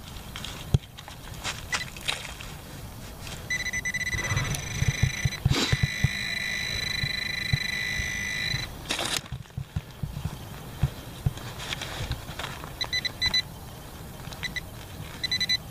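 White's TRX pinpointer sounding a steady high electronic tone for about five seconds, then short beeps near the end, as it homes in on a buried target. Under it are the knocks and scraping of digging in soil.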